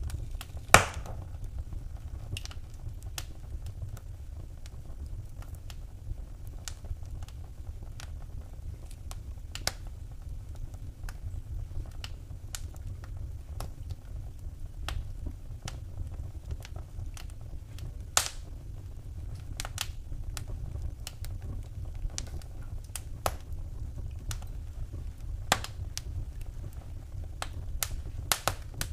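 Wood fire crackling in a fireplace: irregular sharp pops and snaps, the loudest about a second in, over a steady low rumble.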